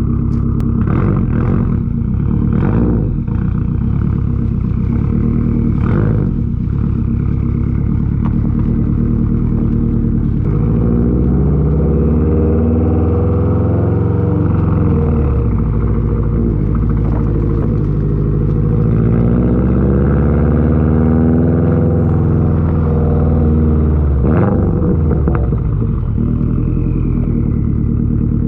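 2021 Subaru WRX STI's turbocharged flat-four running through an RK Titanium titanium catback exhaust. It idles steadily at first, then from about ten seconds in the engine note rises and falls repeatedly, as in light-throttle driving through the gears. A few sharp knocks are heard early on and again near the end.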